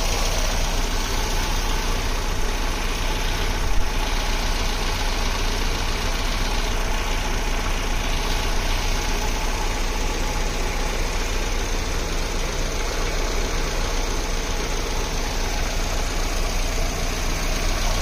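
Mercedes-Benz M102 2.0-litre eight-valve four-cylinder engine, running on a homemade fuel-injection ECU, idling steadily. One short knock sounds about four seconds in.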